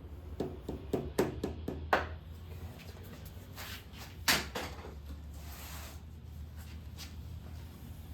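Light knocks and clicks of tools and engine parts being handled: several quick taps in the first two seconds and a single louder knock about four seconds in, over a low steady hum.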